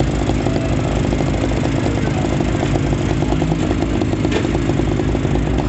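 Two-stroke Stihl chainsaw idling steadily.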